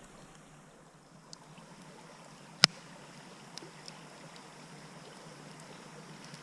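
Wood fire burning in a compact fire pit: a faint steady hiss with a few small crackles and one sharp, loud pop about two and a half seconds in.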